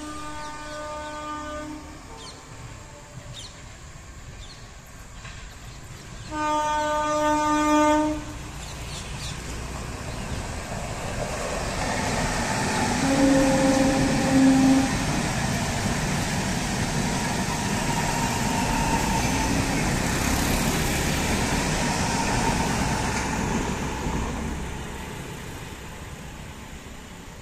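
MEMU electric commuter train sounding its horn, a short blast then a longer, louder one a few seconds later, followed by the train passing close with a rising rush of wheels on rails and another brief horn note partway through, fading near the end.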